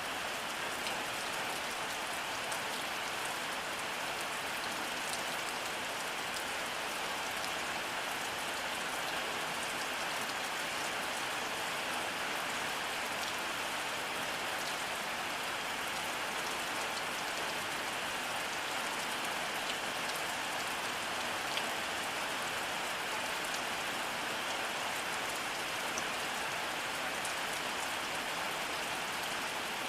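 Steady rainfall: an even hiss of rain with scattered small drop ticks, unchanging throughout, with no thunder heard.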